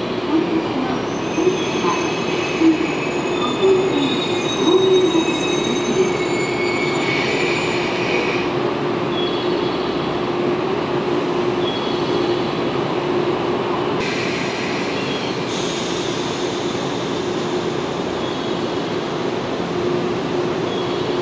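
JNR 117 series electric multiple unit running slowly into a station platform, with high-pitched brake and wheel squeals over its running noise during the first several seconds and a steady hum underneath. A short hiss comes about 14 seconds in.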